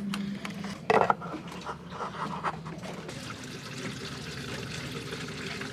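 Diluted hydrochloric acid solution being poured into an engine's cooling system for an acid flush of its rusty water passages: a steady trickling pour, with one short knock about a second in.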